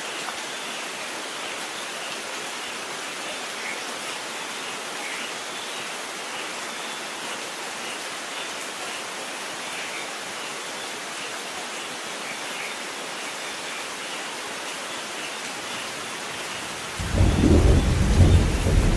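Steady rain falling, an even hiss with light patter. About seventeen seconds in, a loud low rumble of thunder breaks in and becomes the loudest sound.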